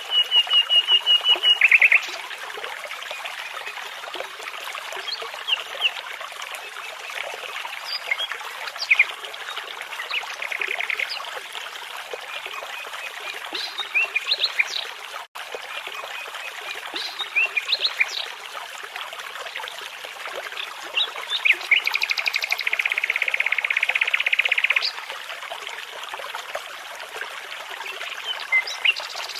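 Nightingale singing in separate phrases of rapid repeated notes and trills, the longest trill lasting about three seconds near the end, over the steady rush of a babbling brook.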